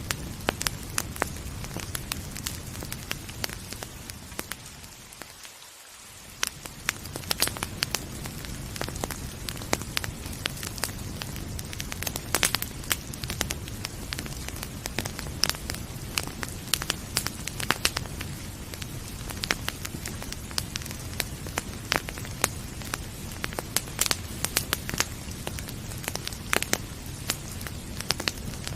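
Wood fire crackling with frequent sharp pops and snaps over a steady low rumble, mixed with soft rain. The sound briefly fades and swells back about five seconds in.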